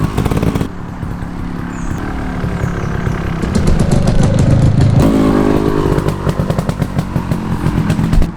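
Petrol trials motorcycle engine running and revving up and down as it is ridden over the course, its note changing abruptly twice.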